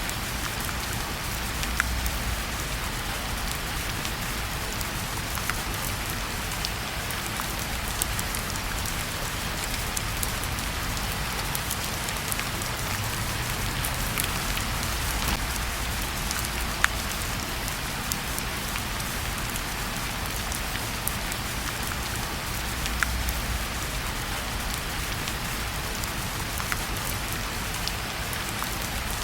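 Steady rain falling, with the crackle of a wood fire: a few sharp pops scattered through the even hiss of the rain.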